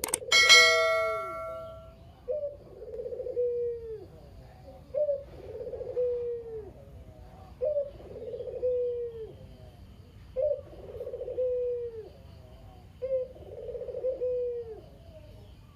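Puter dove (domestic collared turtle dove) cooing its kugeru call five times, about every 2.7 seconds; each call is a short rising note followed by a longer falling coo. At the very start a loud metallic clang rings out and dies away over about a second and a half.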